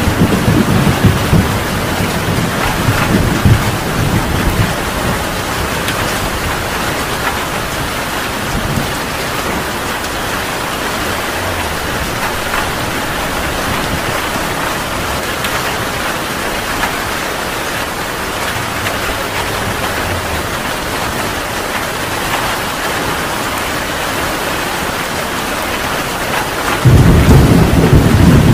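Heavy rain falling steadily. A roll of thunder rumbles at the start and fades within the first few seconds, and a new loud thunder rumble breaks in near the end.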